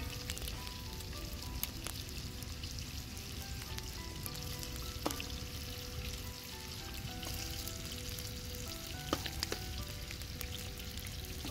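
Chicken hearts frying in oil in a large aluminium pan: a steady sizzle, stirred with a metal skimmer ladle, with a few sharp clicks about five and nine seconds in.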